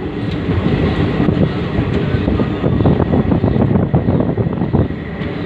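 Passenger train running across a river bridge, heard from inside a carriage at the window, with wind buffeting the phone's microphone in a loud, fluttering rush.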